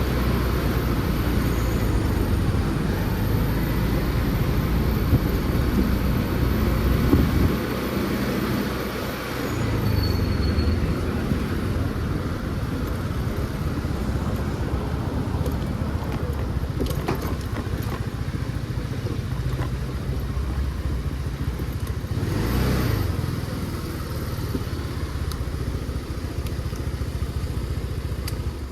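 Motor scooter riding through city traffic: its engine running under steady road and wind noise, easing off briefly about eight seconds in.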